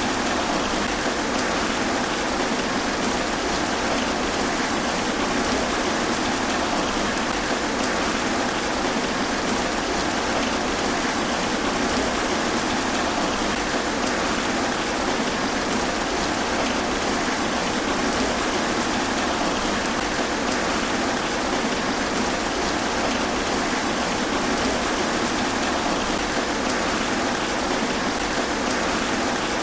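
Steady rain falling through trees, an even, unbroken hiss of drops on leaves.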